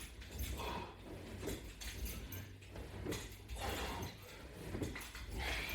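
A person doing sit-ups or crunches on a strap-and-resistance-band exercise rig: rhythmic breaths and movement noises, with a light clink of hardware, about once a second.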